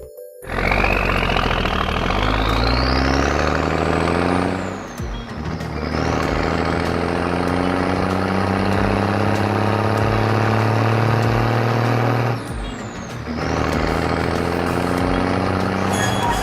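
Truck engine running steadily, with a high whine rising over the first few seconds; the sound eases off briefly twice, about five and twelve seconds in.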